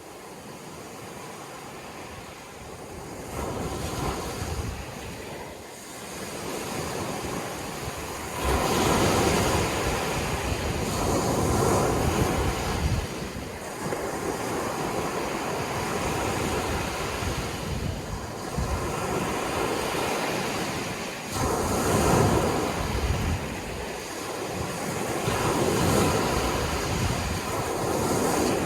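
Sea waves washing onto a shore, a steady rush that swells and eases every few seconds, building up from quieter over the first few seconds.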